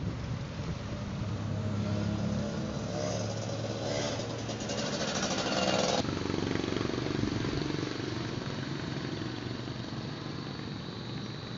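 Sport motorcycle engine running, its note growing into a fast, dense rattle of firing pulses that cuts off abruptly about six seconds in. A quieter engine sound follows, with a thin high whine near the end.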